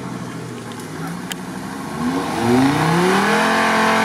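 Off-road competition 4x4's engine under load, first a low rumble, then revving up hard about halfway through and held at high revs as the vehicle works through rough ground.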